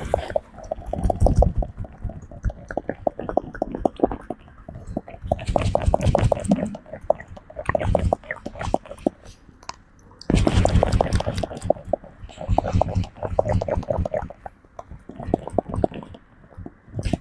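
A monkey grooming a person at close range: dense, uneven clicking and crackling of fingers picking and rubbing through hair and skin, with wet mouth clicks. It comes in bursts, with a short lull just before halfway.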